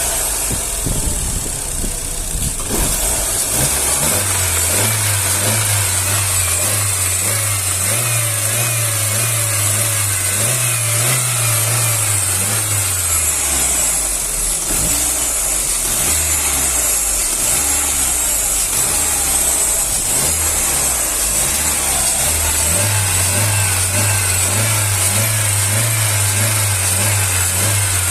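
Chevrolet Astra's four-cylinder engine revved up and held for several seconds, dropping back to idle, then revved and held again near the end. It is being run up to bring out a faint knock on acceleration that the mechanic puts down to play in the piston pins.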